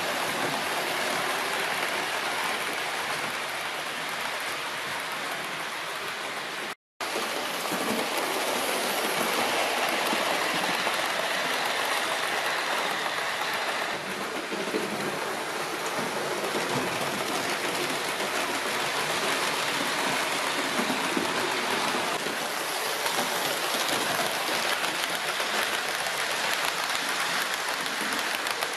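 Model trains running on the layout track: a steady rushing noise of wheels on rail and small motors, broken by a sudden cut to silence about seven seconds in.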